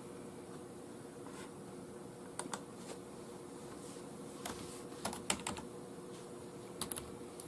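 Scattered, sparse keystrokes on a computer keyboard, a few short clicks at a time, over a faint steady hum.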